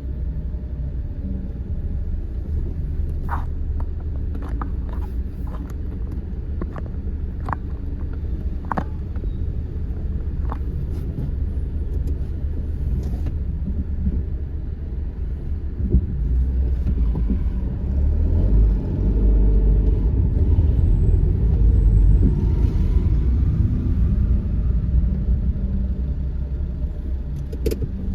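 Car driving through city streets, heard from inside the cabin: steady low engine and road rumble that grows louder past the halfway point, with a few light clicks in the first third.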